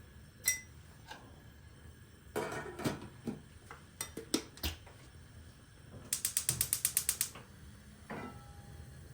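Handling noises: clicks and clatter of small hard objects, then a quick even run of about a dozen ratcheting clicks lasting a little over a second, and a final clink that rings briefly.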